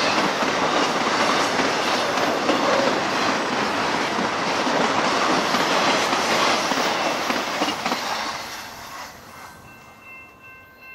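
Intermodal freight train cars rolling past on the rails, a steady rumble and rattle of wheels and couplings. About eight seconds in it fades away as the last car goes by.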